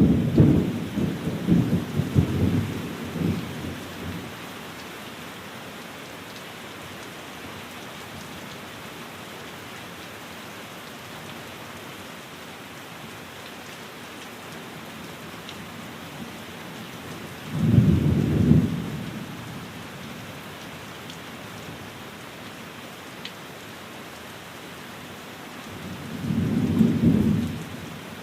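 Steady rain falling on a window, with three low rumbles of thunder: a long one at the start, another about eighteen seconds in, and a third near the end.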